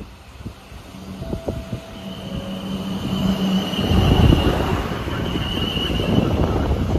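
Train running into or through the station, growing louder to a rumbling peak about four seconds in, with a steady high-pitched whine over the middle of the pass.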